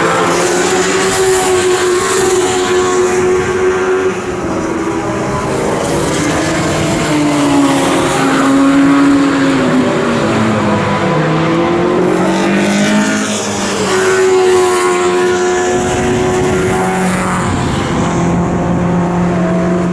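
Race car engines running hard on the circuit, more than one at once, their pitch holding, then falling and climbing again as they lift off and accelerate.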